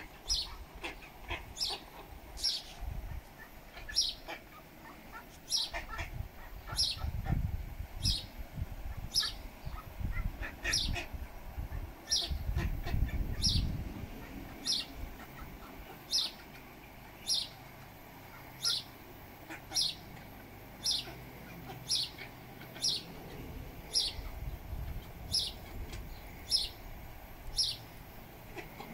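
A bird's short, high chirp repeated at an even pace, a little more than once a second. There are two spells of low rumble, about a quarter and about halfway through.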